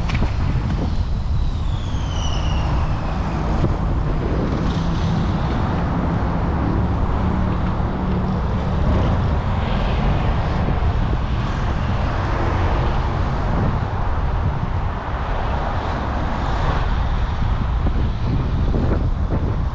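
Steady rumble of wind and traffic noise heard while riding a bicycle, with a brief high falling squeal about two seconds in.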